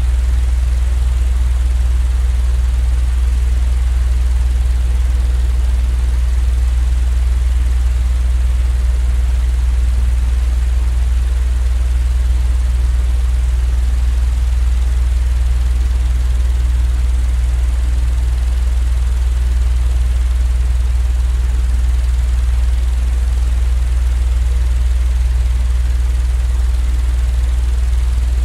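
Steady, unchanging deep rumbling drone with a soft hiss above it, a continuous sleep-noise track.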